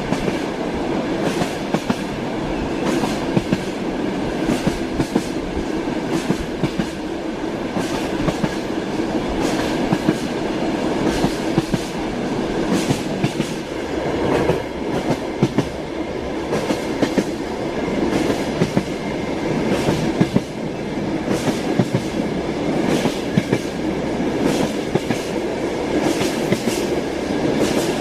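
Train wheels clattering over rail joints above a continuous rolling rumble, with sharp clicks several times a second, heard from inside a moving railway carriage.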